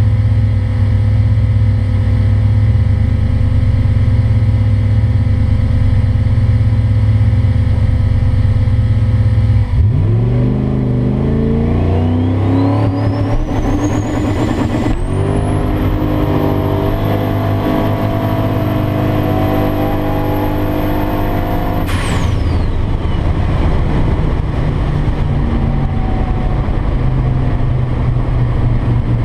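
Single-turbo 2002 Mustang V8 running steadily, then launching about ten seconds in. The engine revs climb under a rising turbo whistle, with one gear change from the two-speed Powerglide about five seconds later. It pulls hard with a high steady whistle until it lifts off about seven seconds after the shift, and the turbo whine falls away as it coasts.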